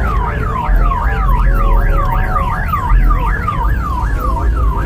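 Electronic siren on yelp, a fast up-and-down wail repeating about four times a second, over a steady low rumble.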